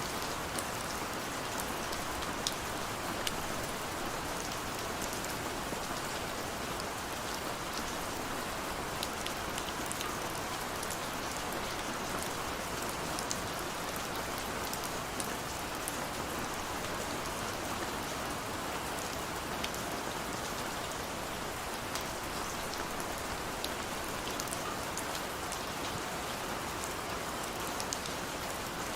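Steady rain falling, an even hiss with many small scattered drops ticking on hard surfaces.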